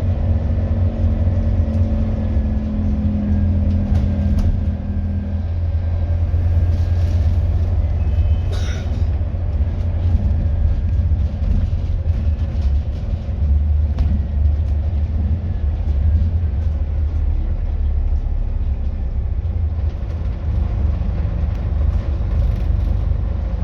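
Scania N230UD double-decker bus's nine-litre five-cylinder diesel running with a steady low rumble; a higher steady whine over it stops about five seconds in.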